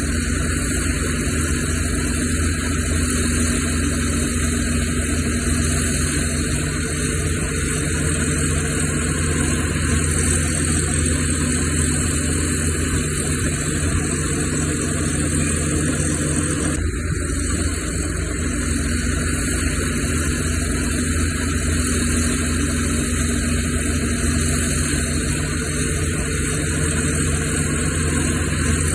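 Heavy diesel engine of earthmoving equipment running steadily with a low, even drone, with a sudden brief break in the sound about 17 seconds in.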